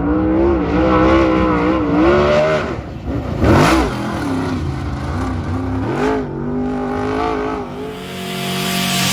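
Dirt super late model race car's V8 engine revving on track, its pitch rising and falling as the throttle opens and closes, with a car sweeping past about three and a half seconds in.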